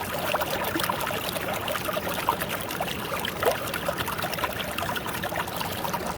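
Mountain stream water trickling and pouring over rocks, a steady rush dotted with many small bubbling plinks. It cuts off suddenly at the end.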